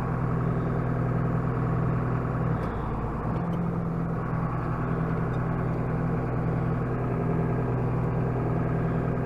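John Deere tractor's six-cylinder diesel engine running steadily, heard from inside the cab, with a slight change in engine note about three seconds in.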